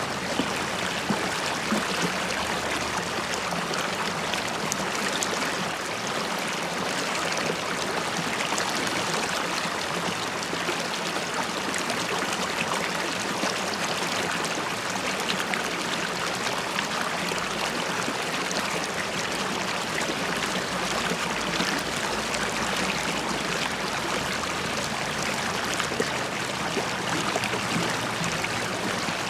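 A river stream flowing steadily over stones, bubbling and gurgling with a dense patter of small splashes.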